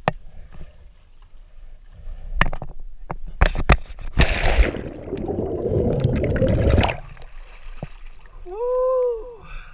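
A diver dropping into the sea: a few sharp knocks of gear, then a loud splash and about three seconds of water rushing and bubbling over the camera, which stops suddenly.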